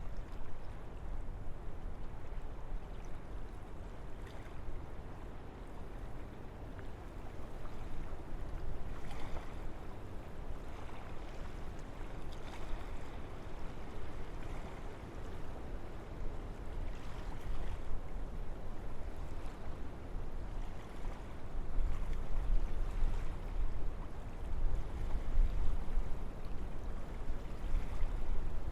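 Wind blowing through forest trees, a steady rushing with a deep rumble that swells in stronger gusts about three quarters of the way through.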